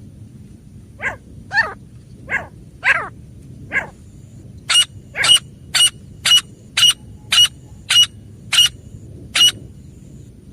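Female grey francolin calling: five short calls that each fall in pitch, then a quick run of about ten sharper, higher-pitched calls at roughly two a second.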